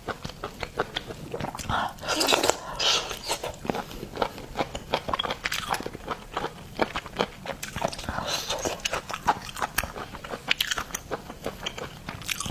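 Close-miked eating of seafood: wet chewing and crunching with rapid crackling clicks, and louder wet slurping bursts about two seconds in and again about eight seconds in.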